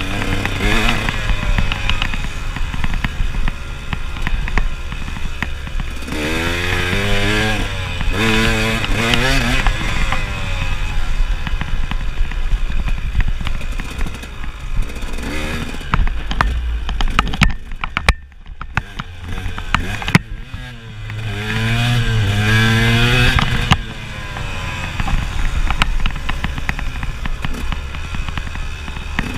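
KTM enduro motorcycle engine being ridden hard off-road, revving up and down repeatedly as the throttle opens and closes, with knocks and rattles from the bike over rough ground. About two-thirds in the throttle shuts off and the engine drops away briefly before revving up again.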